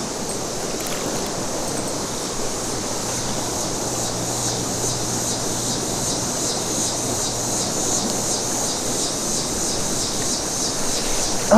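Fast creek current rushing steadily around a wading angler, with a high, even pulsing of about three beats a second over it.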